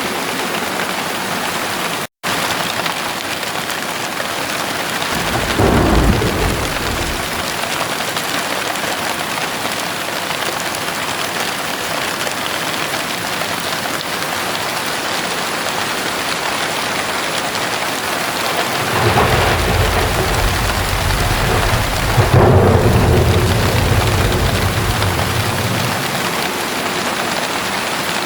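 Heavy rain pouring steadily, with thunder rumbling twice: a short roll about six seconds in and a longer, louder one starting about two-thirds of the way through. The sound cuts out for an instant about two seconds in.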